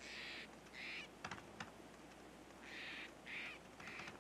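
Gray squirrels giving harsh, raspy scolding calls in short bursts, two at first and three more near the end, with a few sharp clicks in between.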